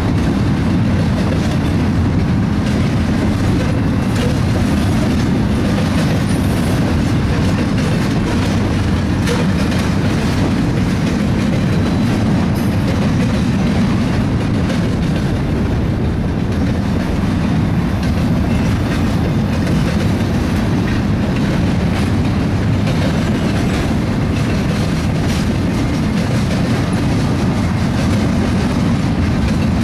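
BNSF double-stack intermodal train's well cars rolling past: a steady rumble of steel wheels on rail, with scattered clicks.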